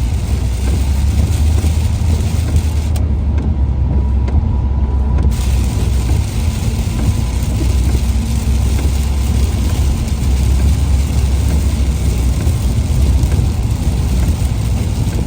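A car travelling on a wet highway in the rain: a steady low rumble of engine and tyres with a hiss of rain and road spray. The hiss drops away for about two seconds, starting about three seconds in, while the rumble carries on.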